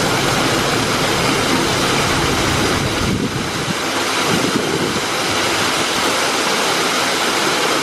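Steady, loud rushing of water falling from a mini-golf course's artificial waterfall.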